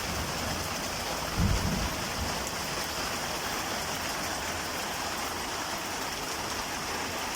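Steady rain falling, an even hiss, with a brief low rumble about a second and a half in.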